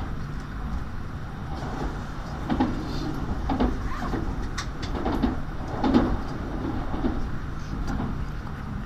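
Tokaido Shinkansen train heard from inside the passenger car while running: a steady low rumble, with a run of irregular knocks and clunks in the middle few seconds.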